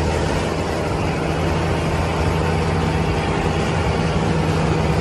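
Tractor engine running steadily, an even low drone that holds the same pitch throughout.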